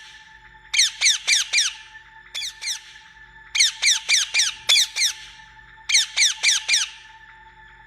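Parrot squawking: short, harsh calls, each falling in pitch, in quick bursts of two to six, about four calls a second. A faint steady tone runs underneath.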